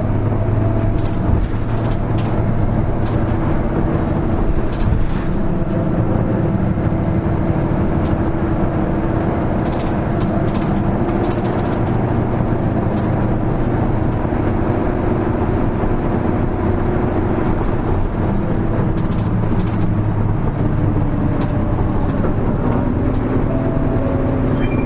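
Interior sound of a Hino Rainbow HR (KL-HR1JNEE) diesel city bus driving along: a steady engine drone and road noise, with scattered light rattles from the cabin.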